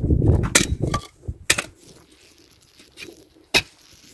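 Firewood logs being handled, giving three sharp wooden knocks. In the first second the microphone picks up a heavy rumble of wind buffeting.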